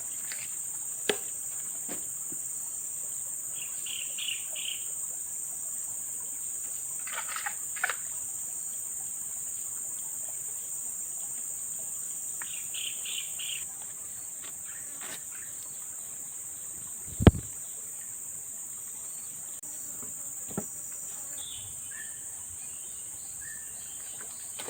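Steady high-pitched drone of forest insects, with two short trilled bird calls and a few sharp knocks; the loudest knock comes about two-thirds of the way through.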